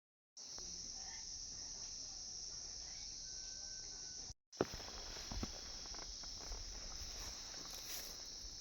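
Insects buzzing in a continuous high-pitched drone, cut off briefly about four seconds in, with a sharp knock just after the break.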